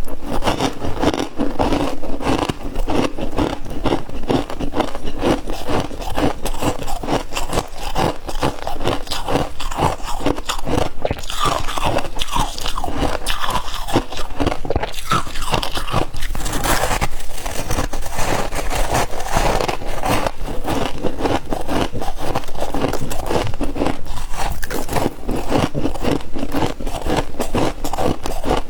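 Crispy humidifier ice being bitten and chewed close to the microphone: a dense run of rapid crunches and crackles with some scraping.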